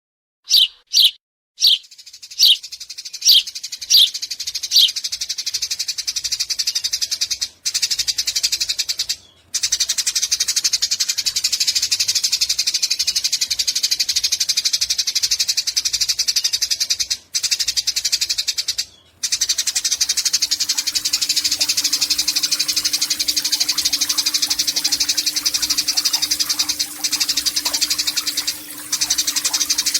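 Eurasian tree sparrow singing: a few separate loud chirps, then a long, very fast, unbroken rattling chatter ('nyecret panjang'), which stops briefly a few times. A low steady hum joins in about two-thirds of the way through.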